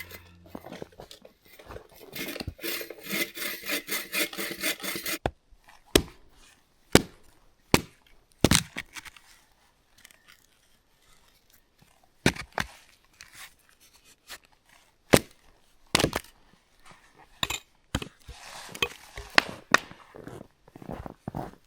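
Hand saw cutting through wood in quick, rhythmic strokes for a few seconds, stopping abruptly, followed by a string of separate sharp wooden knocks and clacks.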